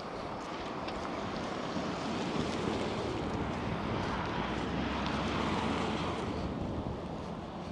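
A vehicle driving past, its tyre and engine noise swelling and then fading.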